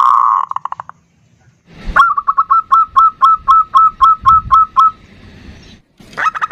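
Zebra doves calling: a loud rolling trill at the start, then after a short pause a run of about a dozen short, evenly spaced coos, roughly four a second, with more coos near the end.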